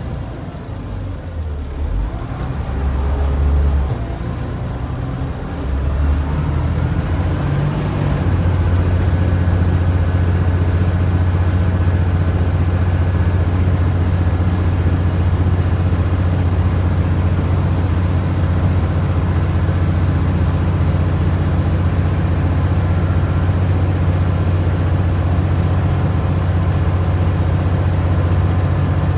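Scania DC09 engine of a Scania N94UD double-decker bus pulling under load. Its note shifts over the first few seconds, then from about eight seconds in holds at high, steady revs with a high whine that rises and stays level, as the gear is held rather than changing up.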